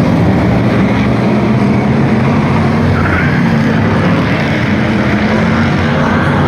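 V8 stock car engines running hard at racing speed, a loud, steady engine noise with no let-up.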